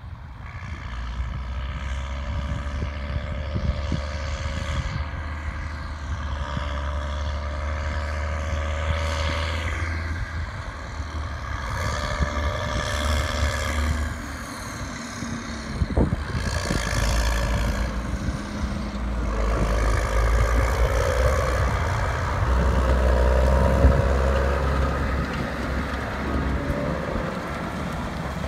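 Diesel engines of silage-harvest machinery, a forage harvester and tractors, running steadily, their sound swelling and fading several times as machines pass.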